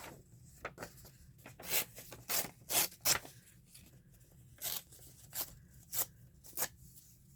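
Scissors snipping paper as a label is fussy-cut from a book page: a quick run of short snips, then a pause and four more spaced-out cuts.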